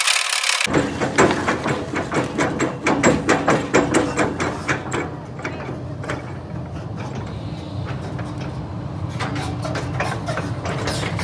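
A steady engine rumble under a rapid run of metallic clicks and clanks. The clicking is densest over the first five seconds, then thins out and picks up again near the end.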